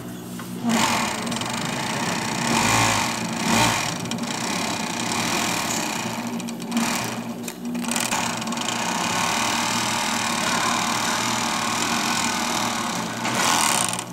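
Juki MO-6716S five-thread overlock machine running at steady speed as it sews. It starts just under a second in and pauses briefly around the middle before running on.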